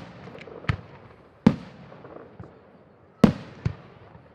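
New Year's fireworks going off: four sharp bangs with a couple of fainter pops between them, each bang trailing off in an echo. The loudest bang comes about three seconds in, followed quickly by another.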